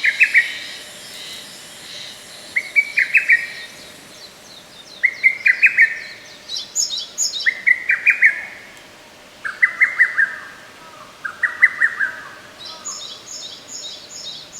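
Lesser cuckoo (hototogisu) singing its short, quick phrase of notes six times, about every two and a half seconds. A second, higher-pitched bird gives rapid chirps twice, once midway and again near the end.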